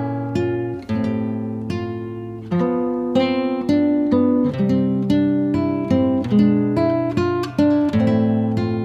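Background music: acoustic guitar playing plucked chords, several struck in every second.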